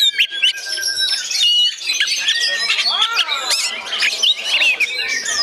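Oriental magpie-robin (kacer) in full, continuous song: a dense run of varied whistles, chirps, trills and harsh squawky notes with no pause, some notes overlapping.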